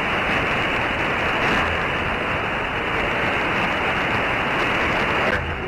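Open-squelch static from a CB radio receiver: a steady, loud hiss with no station on the channel between transmissions. Near the end the hiss drops out as another station keys up.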